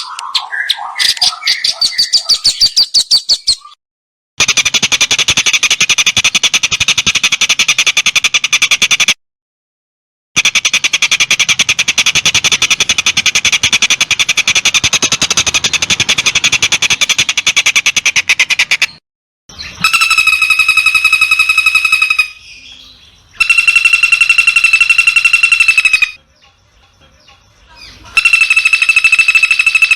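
Songbird song for training a long-tailed shrike: a few seconds of quick falling chirps, then two long, very fast buzzy trills, then three long, steady whistled notes near the end, each piece starting and stopping sharply as if cut together.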